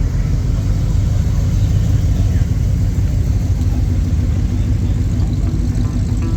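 A classic car's engine running as the car drives past, a steady low engine sound.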